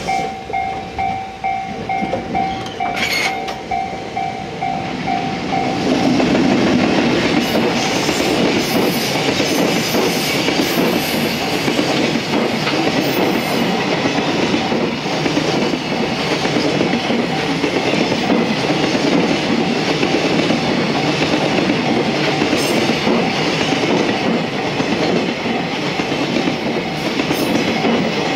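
Container freight train wagons rolling past, their wheels clattering over the rail joints in a steady, heavy rumble that takes over about six seconds in. Before that, a ringing signal tone repeats at about two to three strokes a second, then stops.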